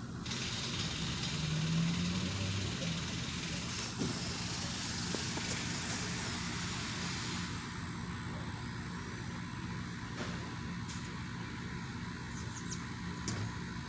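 Steady low mechanical drone with a faint pitched hum, the ongoing grinding noise from the industrial site. A louder rushing sound, like a vehicle going by, swells in the first few seconds and fades out about seven seconds in.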